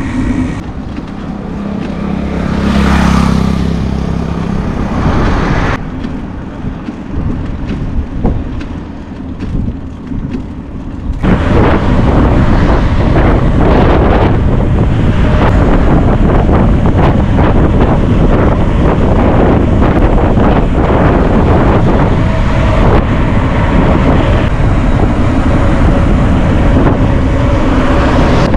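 Wind buffeting the microphone of a moving rider, with road vehicle noise underneath. For the first few seconds a vehicle's low hum swells and fades; about eleven seconds in, a loud, steady wind rush takes over.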